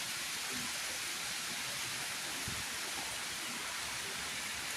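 Steady rain falling and pattering on surfaces, an even hiss at a constant level.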